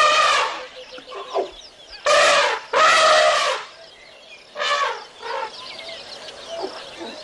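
An animal calling repeatedly: four short pitched calls, each under a second long, with fainter short calls in the gaps between them.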